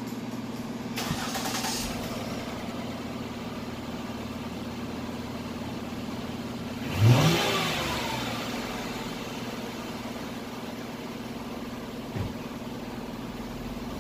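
Ford Escape engine cranking and catching about halfway through, with a quick rev that rises and falls before it settles to a quiet idle through its newly fitted replacement muffler. A brief hiss comes about a second in, and a click near the end.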